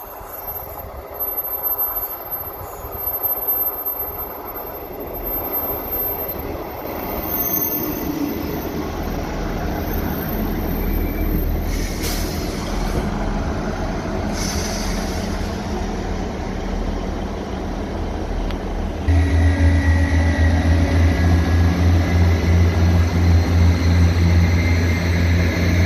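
ScotRail Class 158 diesel multiple unit running along the platform on the near track: diesel engine and wheels on the rails, growing gradually louder. About 19 seconds in it gets suddenly louder with a steady low drone as the train passes close.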